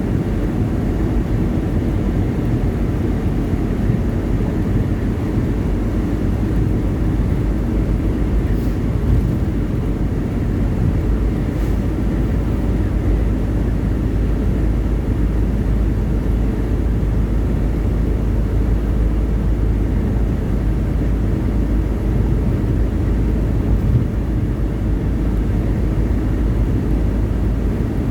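Steady low drone of a semi-truck's engine and road noise while driving on the highway.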